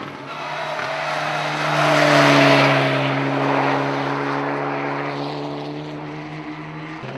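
Rally car engine passing at steady high revs, growing louder to a peak about two and a half seconds in and then fading away.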